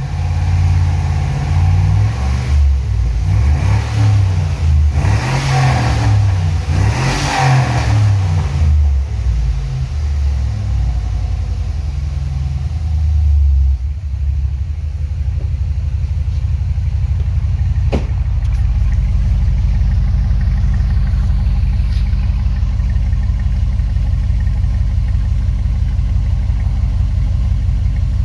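2005 Chevrolet Silverado 1500's 4.8L V8 running through a custom-built exhaust, revved in a series of uneven bursts for about the first half. It then settles into a steady, deep idle, with one sharp click partway through the idle.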